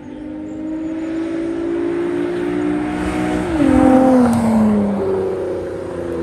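A race car's engine accelerating hard and passing close by. Its note climbs steadily, then drops sharply as it goes past, loudest about four seconds in.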